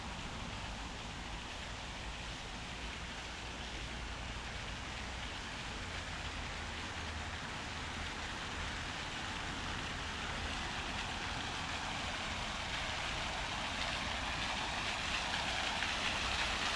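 Rain falling on city pavement, a steady hiss over a low rumble, the hiss growing louder in the second half.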